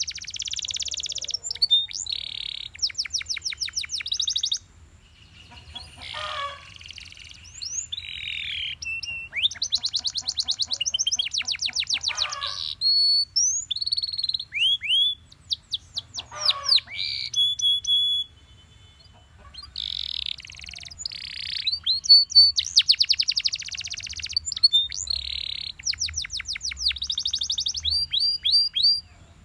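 Domestic canary singing: phrases of rapid trills and sweeping whistled notes, with short pauses between them.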